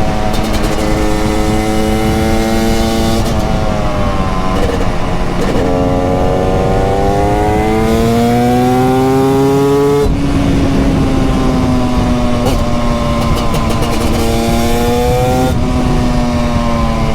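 TM Racing SMR 300 supermoto's 300cc single-cylinder two-stroke engine under way, its pitch climbing steadily under throttle for several seconds, then dropping sharply about ten seconds in and easing down, with further steps in pitch as the rider works the throttle and gears.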